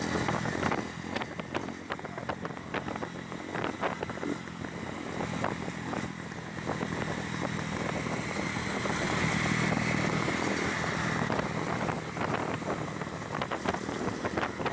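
Motorcycle engine running while riding, likely the Honda CB300's single-cylinder engine, with wind rushing and crackling on the microphone. The engine grows louder about two-thirds of the way through, then eases back.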